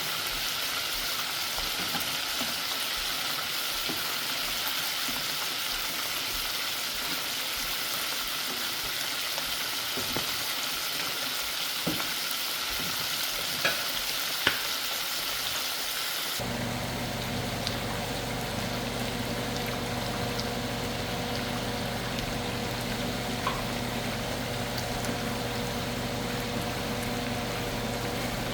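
Chicken frying in hot oil, a steady sizzle with a few light clicks. About 16 seconds in the sound cuts abruptly to a quieter sizzle over a steady low hum.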